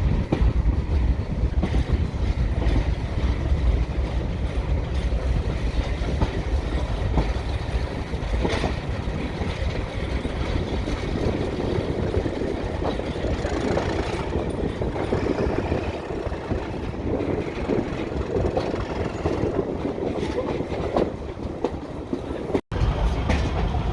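Diesel-hauled heritage train running along the line: a steady low rumble with scattered wheel clicks over the rail joints. The sound cuts out for an instant near the end.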